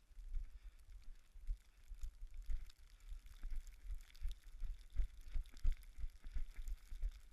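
Running footfalls thudding on a snowy trail in a quick, even rhythm, with a steady hiss above them.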